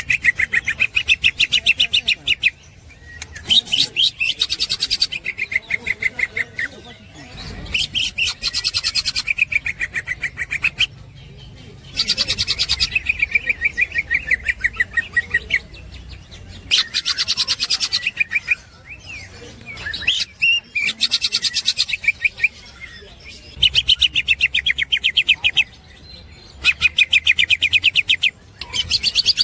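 Green leafbird (cucak ijo) singing its rapid chattering 'ngekek' song: bursts a few seconds long of fast, repeated high notes, with short pauses between them.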